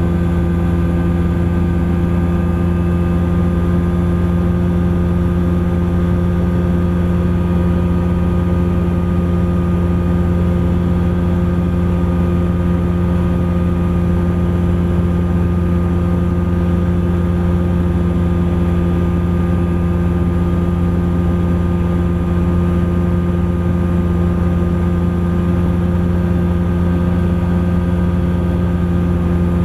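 Engine and propeller of a Thruster ultralight aircraft running at steady power in flight: a loud, constant drone with no change in pitch.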